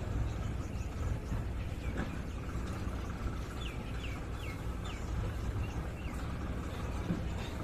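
Tractor engine running steadily, with a bird giving a handful of short downward chirps about halfway through.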